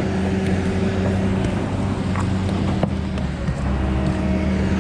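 Diesel engine of heavy logging equipment running at a steady speed: an even low drone.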